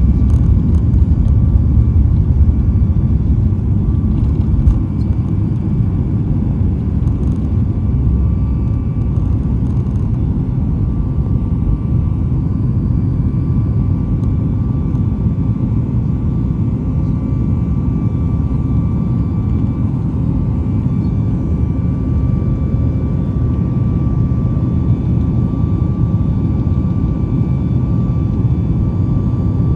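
Jet airliner taking off: a loud, steady low rumble of engines at takeoff power, with a steady whine on top and a few light rattles in the first ten seconds or so.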